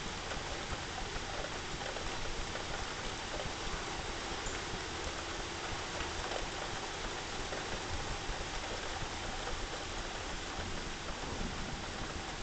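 Steady rain falling, an even hiss of rainfall with no thunder.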